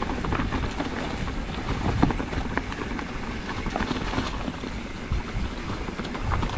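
Mountain bike rolling along a rough dirt trail: tyre noise with frequent small knocks and rattles from the bike, and wind on the microphone.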